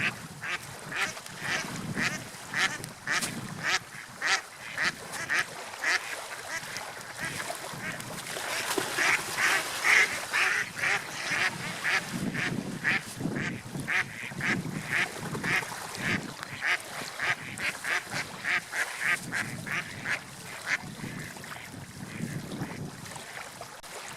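A flock of birds calling: many short, harsh calls repeated a few times a second, loudest about ten seconds in, over a low rushing background.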